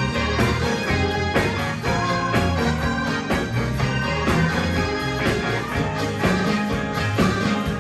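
Band playing music live, with a steady beat and a bass line.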